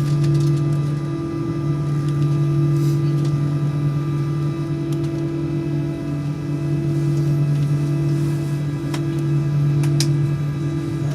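Steady drone and hum inside the cabin of an Airbus A319-112, its engines and air system running evenly with no rise in pitch, while the jet waits or taxis before the takeoff roll; a few faint clicks.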